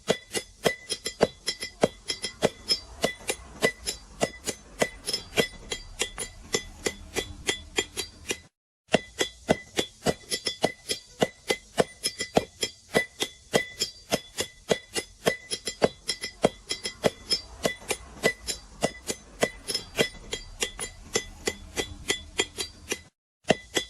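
Blacksmith's hammer striking iron on an anvil in a steady rhythm, a few blows a second, each blow ringing out with a bright metallic tone. The hammering breaks off briefly about a third of the way in, then resumes.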